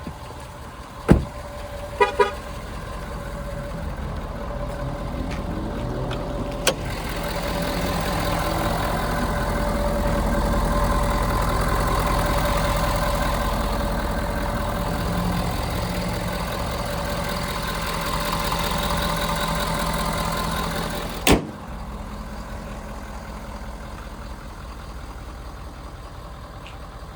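A 6.7L Power Stroke V8 turbo diesel running, its sound swelling louder for several seconds in the middle and then easing back. A short double beep comes about two seconds in, and sharp knocks come near the start, partway through and once more a few seconds before the end, after which it is quieter.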